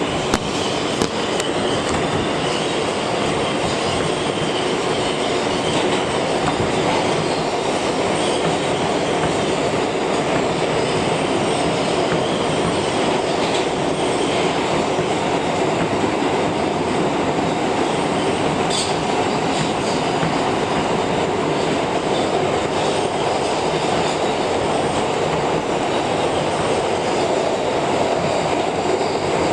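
R160B subway train running along the track, heard from inside the car: a steady rumble of wheels on rail, with a few sharp clicks about a second in and one brief high squeal of wheels near the middle.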